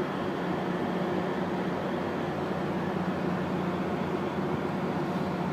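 Steady drone of an idling diesel passenger locomotive, with an even low hum and no change in pitch.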